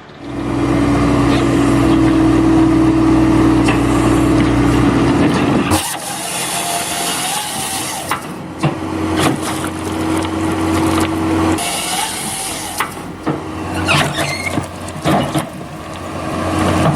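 A large engine running steadily. About six seconds in the sound changes abruptly to another engine, with clanks and knocks over it.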